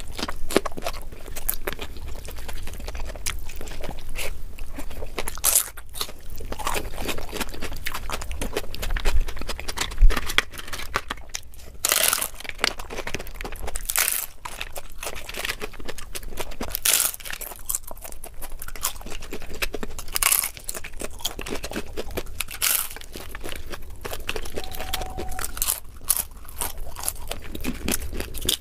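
Close-miked eating: chewing with repeated sharp, irregular crunches of crisp food, including bites of papadum about halfway through.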